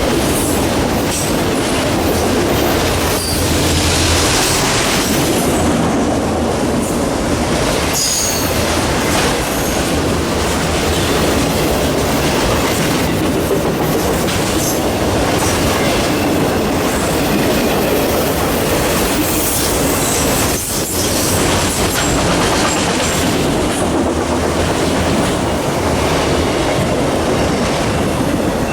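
Freight train cars rolling past close by, the wheels clacking steadily over the rail joints with occasional high wheel squeal.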